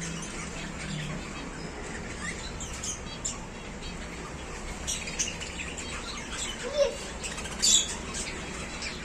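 Birds giving short, high chirps and squawks, a handful of scattered calls with the loudest near the end.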